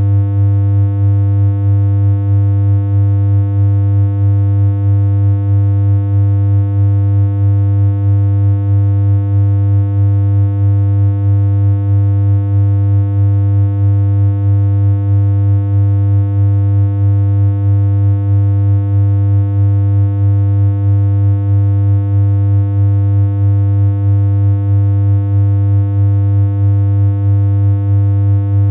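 Synthesized electronic hum: a single low tone held steady without any change in pitch, with a slight regular pulse in loudness.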